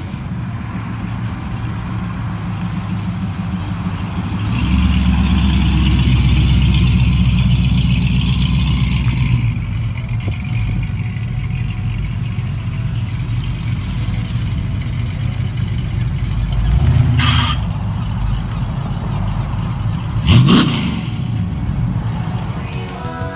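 A car engine idling steadily, with a louder stretch from about five to nine seconds in, a short blip near the middle, and one quick rev that rises and falls sharply about twenty seconds in.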